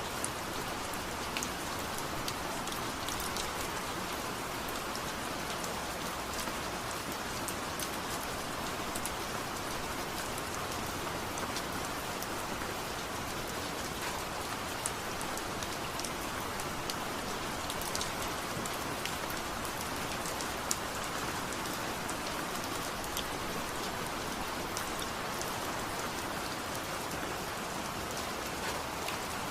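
Steady rain, an even hiss with scattered sharp ticks.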